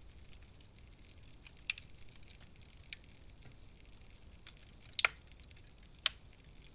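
Wood fire crackling in a fireplace: a faint steady hiss with a few sharp pops, the loudest a quick double pop about five seconds in.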